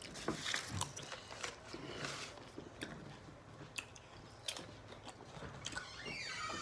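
Crunchy bites and chewing of pickle spears close to the microphone: a string of sharp, irregular crunches.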